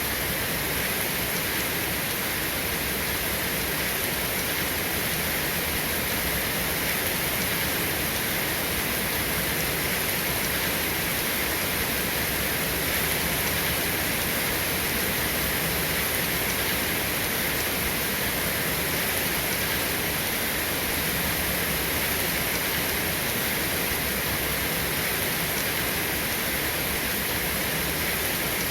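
Steady rain falling without let-up, an even hiss with no thunder.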